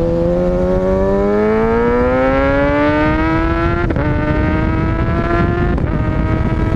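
2020 Kawasaki Ninja ZX6R's inline-four engine pulling under acceleration while riding, its pitch rising steadily for about four seconds, with a brief break and then a steadier, slowly rising note, over heavy wind and road rush.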